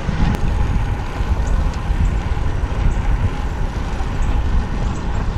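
Wind buffeting the microphone of a rider on a moving bicycle: a steady, fluttering low rumble.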